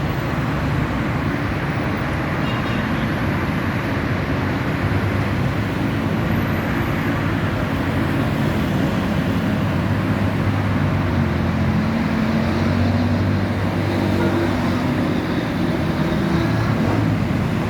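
A vehicle running steadily: a continuous rumble with a few low tones that shift slowly.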